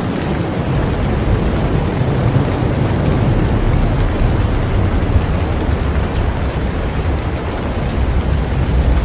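Heavy rain falling steadily on a boat, a dense even hiss with a deep low rumble beneath it.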